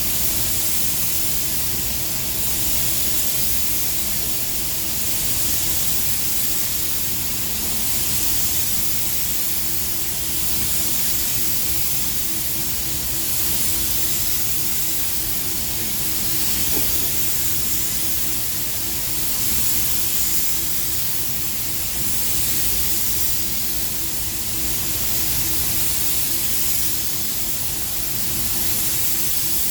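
Paint spray gun hissing steadily while spraying silver-mirror (chrome-effect) coating, swelling and easing every few seconds, over a steady low hum.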